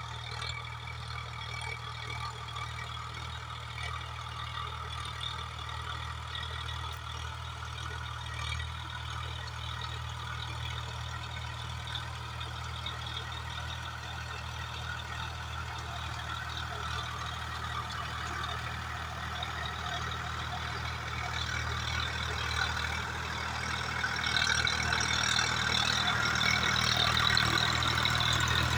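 Swaraj 744FE tractor's diesel engine running steadily while working a rotavator, growing louder over the last several seconds.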